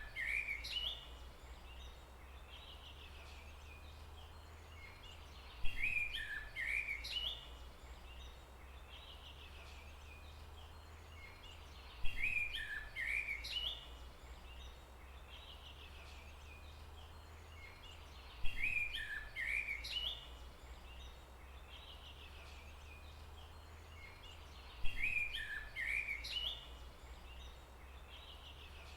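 A songbird's short phrase of chirps, about two seconds long, repeating in the same form about every six seconds as in a looped recording, over a steady low rumble.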